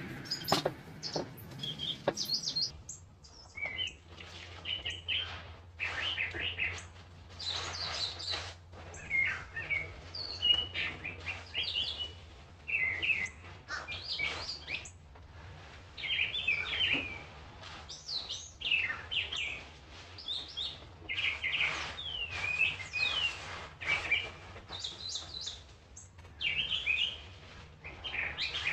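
Several wild birds chirping and singing in short, overlapping phrases, with a steady low hum underneath.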